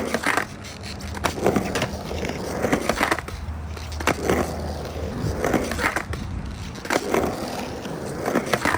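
Skateboard rolling on a concrete quarter pipe, with sharp clacks and knocks of the board and trucks hitting and grinding along the lip during backsmith grinds, about one every second or so.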